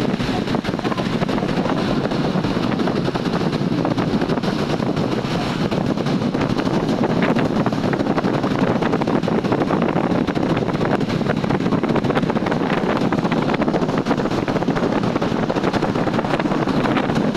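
Steady road traffic noise: vehicles running continuously on a busy highway, with no single event standing out.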